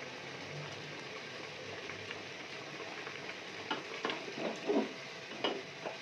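Minced meat sizzling as it fries in an aluminium pressure cooker while a slotted spatula stirs and breaks it up. A few sharper scrapes of the spatula against the pot come in the second half.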